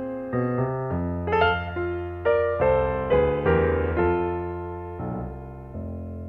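Keyboard playing a slow run of notes and chords, settling on a final chord near the end that is held and left to ring out.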